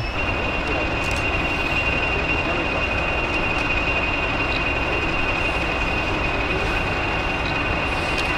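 A train running steadily: an even rumble with a high, steady whine above it.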